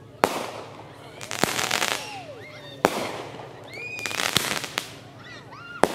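Aerial fireworks: three sharp booms about three seconds apart, with bursts of dense crackling between them.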